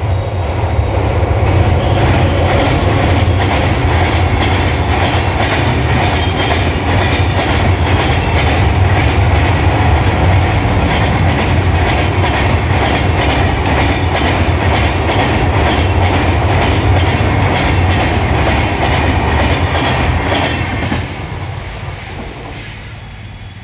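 Indian Railways passenger train running past across a steel girder bridge: a loud steady rumble with a rapid, even clickety-clack of wheels over rail joints. About 21 seconds in the last coach passes, and the sound dies away.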